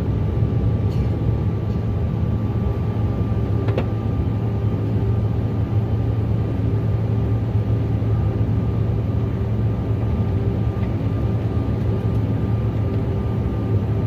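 Jet airliner cabin noise: a steady, loud low drone of engines and airflow, with a faint steady whine above it.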